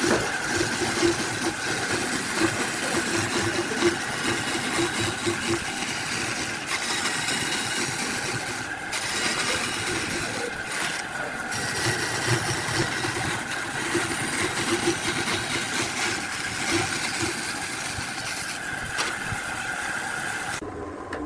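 A motor-driven machine running steadily with a constant whine, stopping abruptly near the end.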